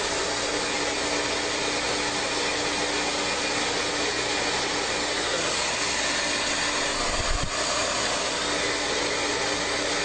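Electric air-moving household appliance, a vacuum cleaner or blower-type dryer, running steadily as a whooshing whir with a constant hum. A brief low bump comes about seven seconds in.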